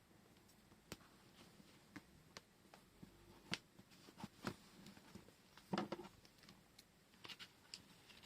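Faint, scattered light clicks and taps of small washi tape rolls and their packaging being handled, with a louder cluster of knocks about six seconds in.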